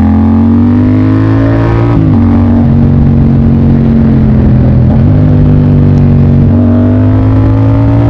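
Motorcycle engine under way, its pitch climbing under acceleration and dropping sharply at a gear change about two seconds in, then holding steady before climbing again to another upshift near the end.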